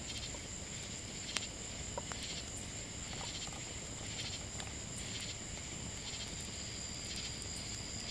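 Insects chirping outdoors, likely crickets: a steady high-pitched drone with a softer chirp pulsing under it, under a second apart. There is a faint click about one and a half seconds in.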